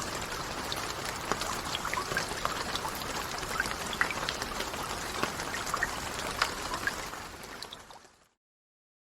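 Steady rain: an even hiss with many separate close drops heard through it. It fades out about seven seconds in and stops dead just after eight seconds.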